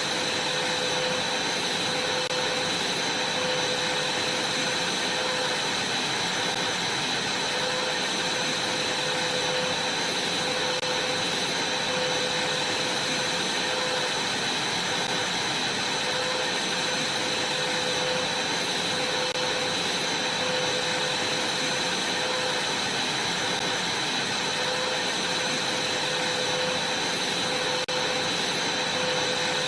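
Vacuum cleaner running steadily: an even rushing noise with a constant high whine, and a fainter lower hum that comes and goes every second or two.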